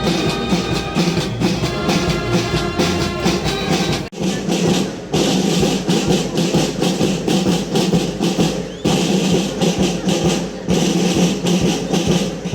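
Police brass band playing a march. Held brass notes carry the first few seconds, then after a brief break the drums take over with steady snare and bass drum beats.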